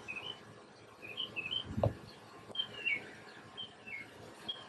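Small birds chirping outdoors: short high chirps in little groups, some falling in pitch, repeated throughout. A single brief low thump a little under two seconds in.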